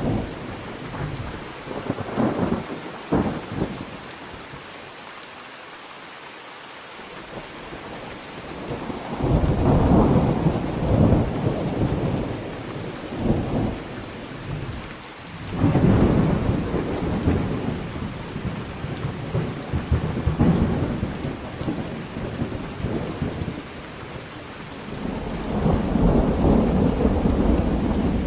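Thunderstorm: steady rain with rolling thunder. Sharp crackling strokes come a few seconds in, then a lull of rain alone, then long rumbles swell up about nine seconds in, again around sixteen seconds, and near the end.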